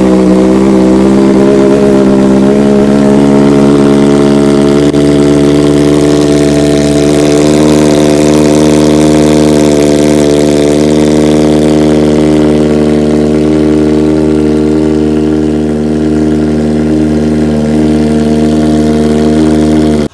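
Kawasaki ZX-4RR inline-four engine idling on a cold start through a short Austin Racing exhaust canister with the catalytic converter deleted. It is very loud, sounding as if there were no canister at all. The revs settle from the start-up flare within the first second into a steady idle.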